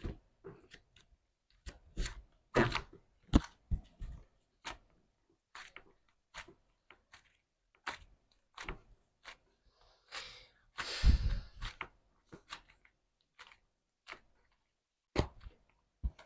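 Slime being squeezed and poked by hand, an irregular run of sticky clicks and small pops, with a longer squelch about eleven seconds in.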